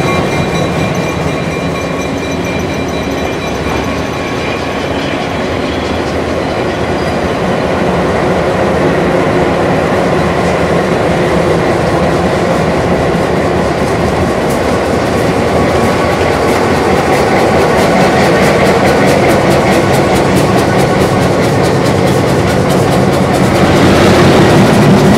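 A train of diesel locomotive units and passenger cars rolling past at close range, its steel wheels rumbling and clicking over the rail joints. It grows louder near the end.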